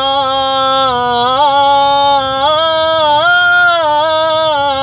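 A singer's voice holding one long note, with a few small turns and steps in pitch, drawn out between two words of the lyric.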